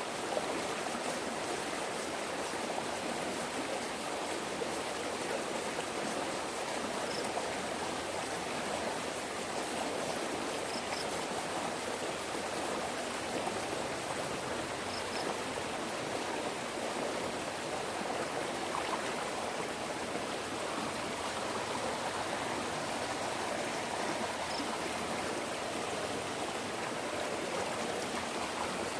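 Steady rush of flowing stream water, with a few faint short high chirps now and then.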